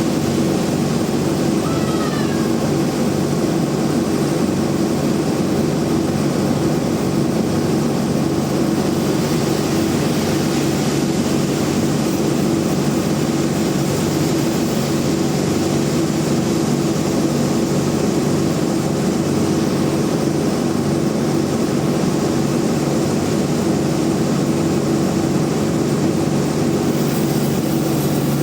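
Large band sawmill running with a steady, even drone.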